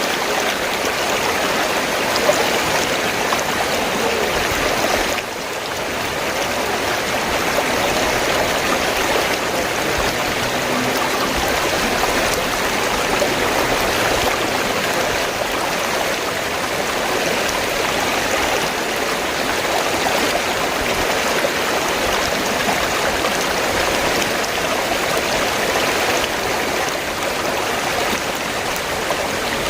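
River water flowing and rushing steadily, an even wash of noise that dips briefly about five seconds in.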